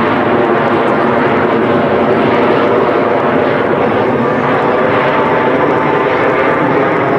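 Loud, steady jet roar of F/A-18 Hornets flying in the display.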